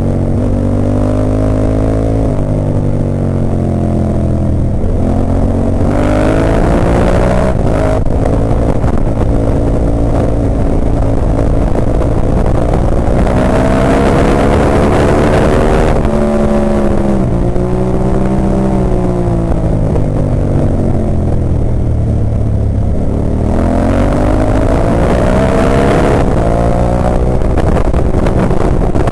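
Onboard sound of a Ducati 998's L-twin engine at race pace, the pitch climbing hard under acceleration and dropping back for the corners several times over. On the faster stretches a rush of wind over the microphone comes in with it.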